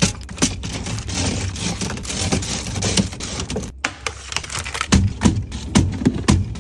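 Snack packets and plastic containers being handled and set into a fridge: a quick run of light clicks and taps, with rustling packaging in the first half.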